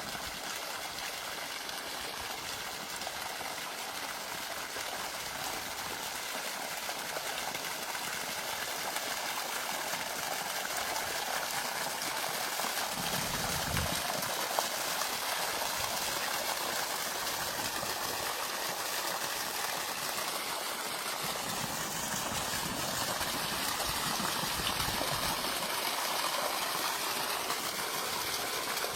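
Flowing water, a steady rushing like a stream, with brief low rumbles about halfway through and again a few seconds later.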